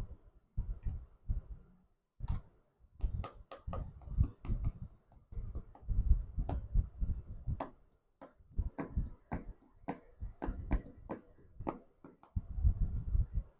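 Toys being handled close to the microphone: irregular sharp clicks and taps over short, low rubbing and bumping sounds.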